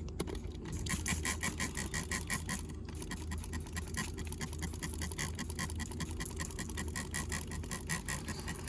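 Trigger spray bottle of bleach squeezed over and over, a fast run of short spritzes with a brief pause about three seconds in.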